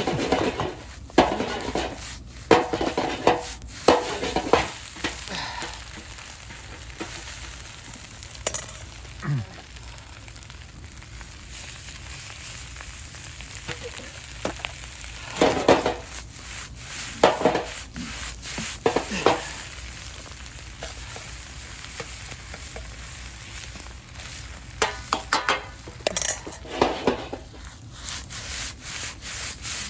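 Fried rice sizzling steadily in a large iron frying pan, with three spells of loud stirring and scraping in the pan: near the start, around the middle and towards the end.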